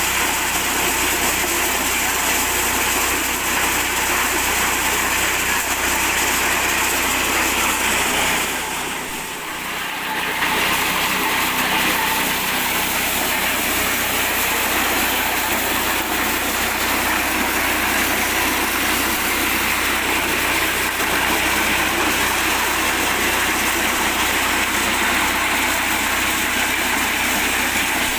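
Mini corn sheller driven by an 8 hp petrol engine, running steadily, with a brief drop in loudness about nine seconds in.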